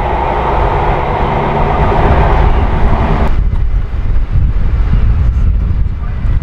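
A train running past close by, a loud steady rush of wheel and engine noise with a few held tones, which stops abruptly about halfway through. After that only low wind buffeting on the microphone is left.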